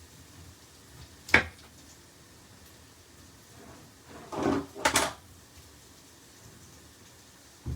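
Kitchen knife cutting the skin off a pineapple on a chopping board: a sharp knock of the blade on the board about a second in, a short rasping cut followed by another pair of knocks around five seconds, and a light tap near the end.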